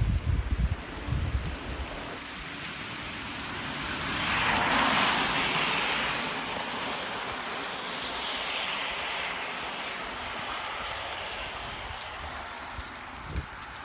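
Typhoon rain and wind on a wet street: a steady hiss of rain, wind buffeting the microphone in the first two seconds, and a rushing swell that rises and fades between about four and seven seconds in.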